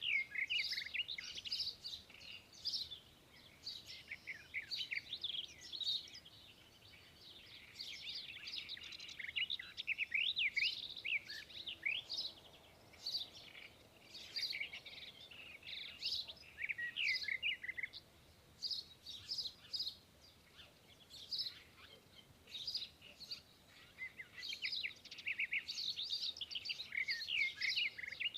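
Small birds chirping and twittering, many short quick high-pitched calls that slide up and down and overlap, coming in flurries with brief lulls.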